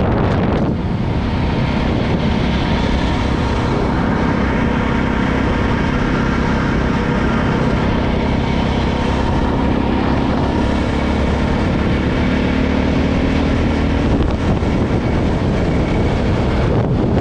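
KTM LC4 640 single-cylinder enduro motorcycle running steadily at road speed, with wind rushing over the microphone.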